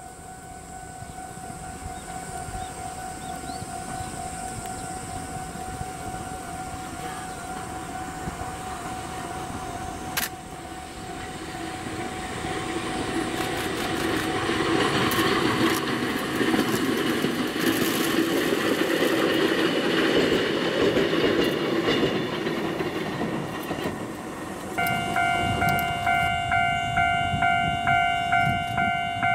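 A vintage Kotoden electric train approaches and passes, its running noise growing from about a third of the way in, staying loud for several seconds, then easing. Near the end a railway level-crossing bell rings in steady repeated dings, about one and a half a second.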